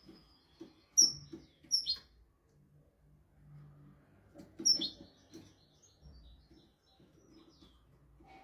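European goldfinch singing: short, bright twittering phrases of high notes and quick falling trills, with the loudest bursts about a second in, near two seconds, and again just before five seconds.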